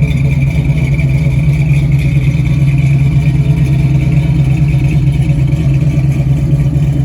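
1968 Ford Mustang's 302 V8 idling steadily through long-tube headers, a 2.5-inch H-pipe and Flowmaster 40 Series mufflers. It idles at around 900–1000 rpm, the speed its Comp Cams 268H cam likes.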